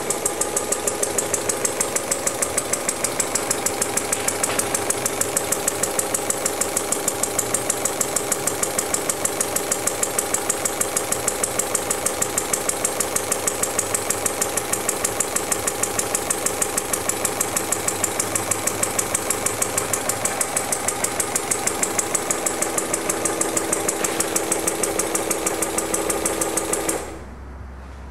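Small home-built VATOC model engine running, with a fast, even clatter of about four beats a second over a steady hum; the sound cuts off suddenly near the end.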